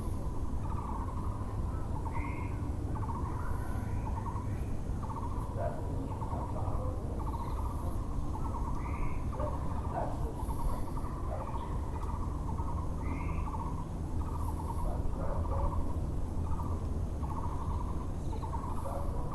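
Muller's (Taiwan) barbet calling, a long run of short hollow hooting notes repeated at a steady rhythm. Another bird gives a short upward chirp three times, over a constant low background rumble.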